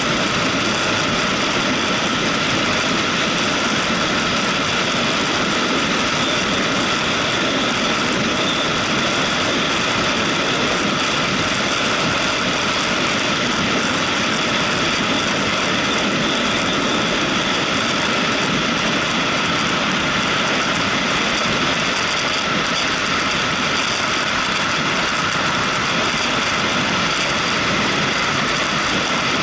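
Motorcycle engine running at a steady, unchanging pitch while riding.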